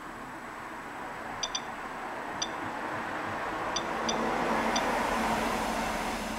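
Soeks dosimeter giving short, pitched detection ticks at irregular intervals, about six of them, each marking a counted radiation particle during a rain-sample reading. Behind them a rushing noise builds to a peak about five seconds in and then fades.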